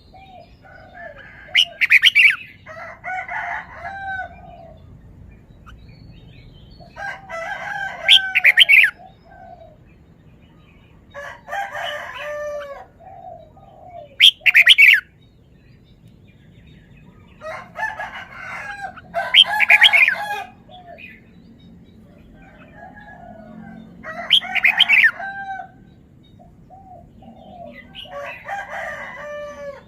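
Red-whiskered bulbul singing: a phrase of quick, warbling whistled notes every three to five seconds, about seven phrases in all.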